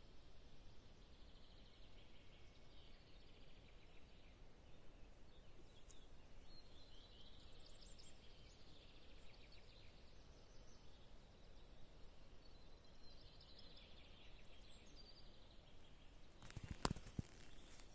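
Faint birdsong: small birds singing repeated trilling phrases, over a faint low rumble. A couple of sharp clicks near the end.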